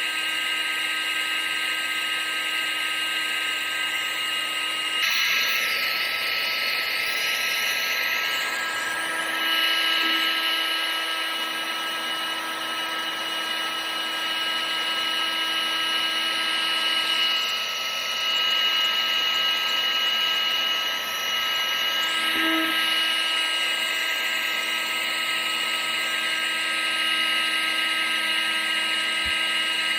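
A household appliance motor, a vacuum cleaner or hair dryer, running steadily with a whine over a rush of air. Its tone shifts about five seconds in.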